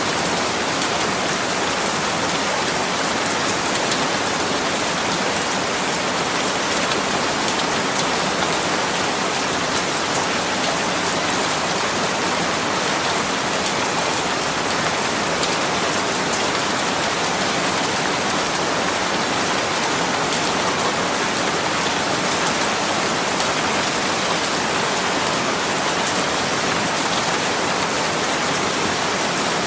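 Steady rain falling, a dense even hiss with many small drop patters, unchanging throughout.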